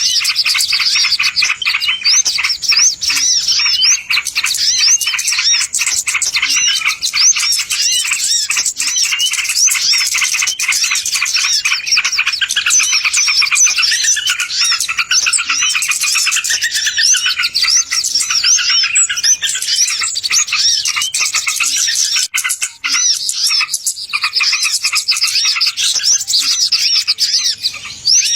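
Loud, dense chirping and twittering of small songbirds, many rapid high calls overlapping without a break: a bird-lure call recording.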